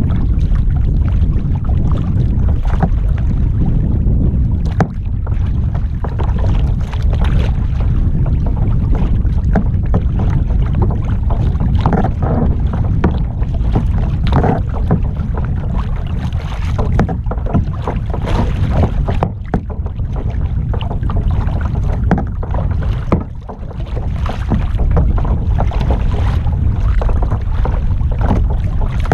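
Wind rumbling steadily on the microphone, with the irregular splashes and knocks of kayak paddle strokes in the water.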